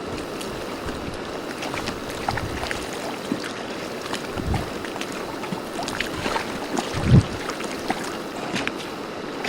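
Water splashing and slapping irregularly against a boat's hull, with wind, and a heavier low thump about seven seconds in.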